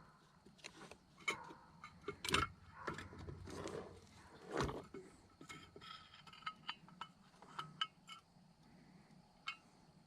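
Light clicks and clinks of small metal carburetor parts and tools being handled as the carburetor is taken apart, with a couple of louder knocks about two and four and a half seconds in.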